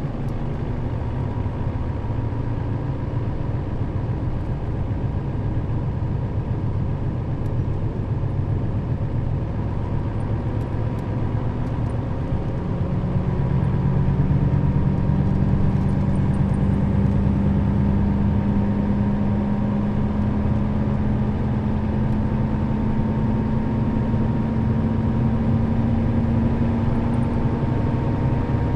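Nissan Diesel KL-RA552RBN route bus's diesel engine running under way. It gets louder about twelve seconds in, and its pitch then rises slowly as the bus gathers speed.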